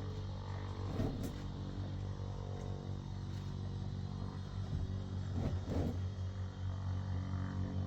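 An engine running steadily with a low hum, with a couple of brief louder moments about a second in and about five and a half seconds in.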